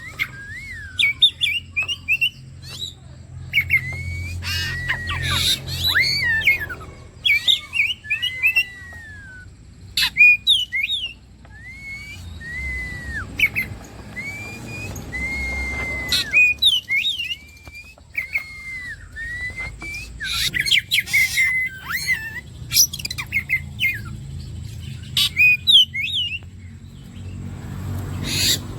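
Oriental magpie-robin (kacer) singing: a varied run of clear whistled notes and slurs broken by loud, harsh, scratchy bursts, with a stretch of the same curved whistle repeated several times in the middle.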